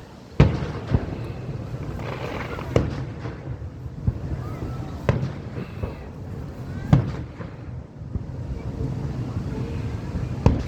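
Fireworks bursting: about six sharp bangs at uneven intervals over a steady low rumble.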